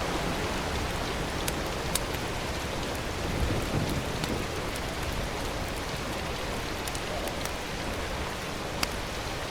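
Steady rain-like hiss with a few scattered light clicks.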